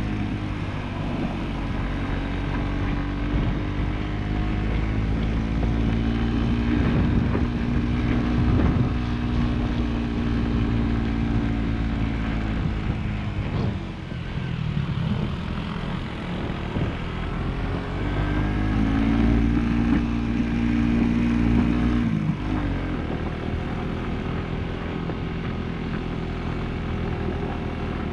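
Motorcycle engine running on the move, with wind rushing over the microphone. The engine note holds steady, eases off about halfway through, climbs again, and eases off once more about three quarters of the way through.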